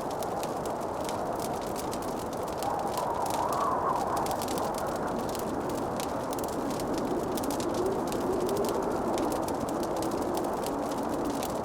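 Fireplace crackling, dense rapid pops and ticks over a steady hiss of burning wood. A faint wavering tone drifts up and down behind it, higher a few seconds in and lower later.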